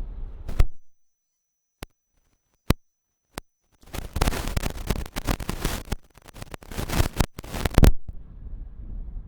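Wind rumble on the microphone cuts off under a second in to dead silence broken by three sharp clicks. About four seconds in comes a few seconds of crackling static full of clicks, then the wind rumble returns.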